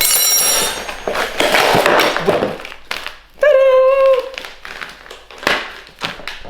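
A dog gives one short, high whine about halfway through, after some rustling and handling noise.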